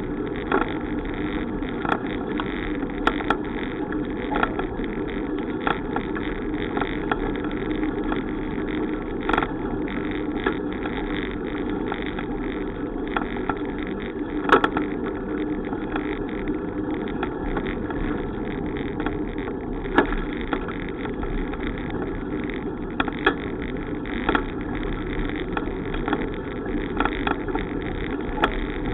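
Steady rush of wind and road noise on a bicycle in motion, with scattered sharp clicks and knocks.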